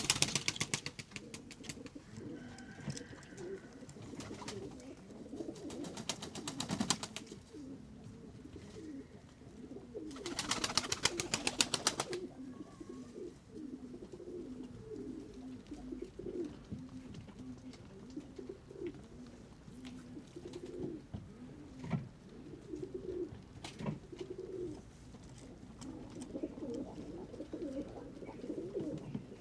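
A flock of pigeons cooing, a low warbling that goes on throughout. Two bursts of rapid wing flapping break in, a shorter one about six seconds in and a louder two-second one about ten seconds in.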